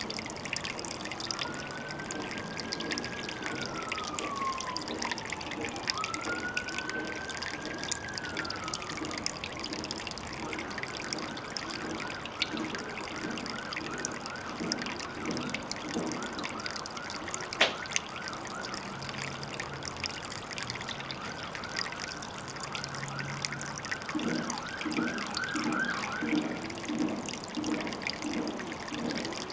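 Water trickling steadily at a pond, with an emergency siren over it: a slow rising-and-falling wail for the first several seconds, then a fast repeating yelp that stops a few seconds before the end. A single sharp click a little past halfway.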